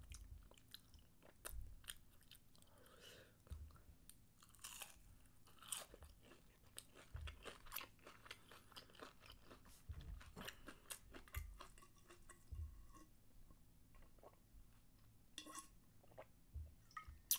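Quiet, irregular chewing and crunching of battered fried shrimp, with small mouth clicks.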